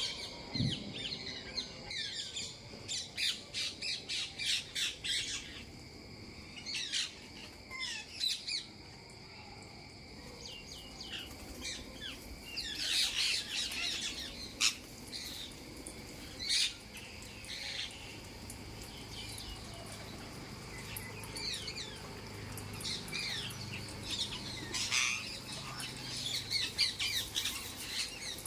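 Parrots squawking in repeated bouts of short, harsh, high calls, busiest near the start, in the middle and near the end, over a faint steady high hum.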